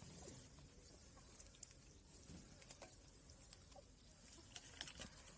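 Near silence: faint outdoor room tone with scattered small ticks and clicks.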